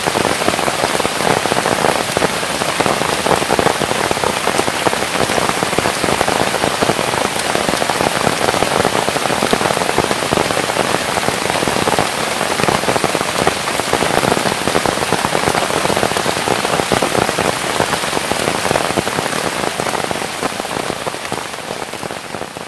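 Steady, dense patter of countless fine ticks over an even hiss, fading out over the last couple of seconds.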